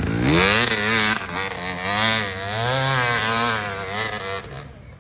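Off-road racing engine revving hard as the machine rides the track. The pitch climbs at first, then swings up and down over and over, and the sound falls away about four and a half seconds in.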